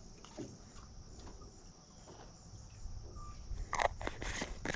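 Steady high-pitched chorus of insects, with a few brief knocks or rustles near the end.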